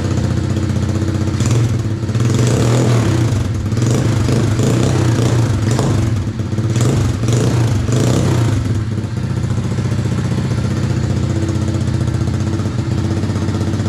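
RFZ 125cc dirt bike engine running on a newly fitted carburetor, choke off, revved in short throttle blips through the first several seconds, then running steadily. The rider judges that it sounds good.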